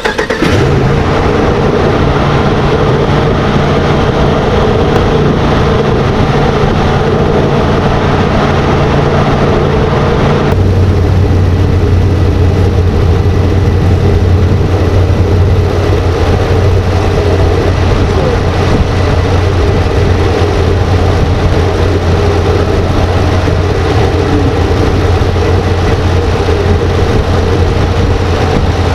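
A 2014 Ram 2500's 6.4-litre HEMI V8 fires up and runs at a raised idle. About ten seconds in it settles to a lower, steady idle.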